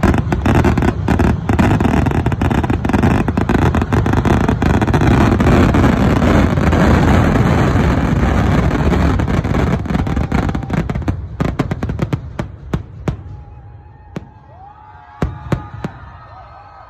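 Massed firework barrage: a dense, rapid crackle of bangs from a fast-firing salvo. About twelve seconds in it dies away to a few scattered single bangs.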